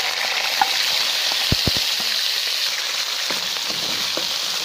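Raw chicken pieces hitting hot oil in a karahi and sizzling, a steady dense hiss with small crackles and spits. It starts sharply as the chicken goes into oil already hot enough to fry garlic light golden.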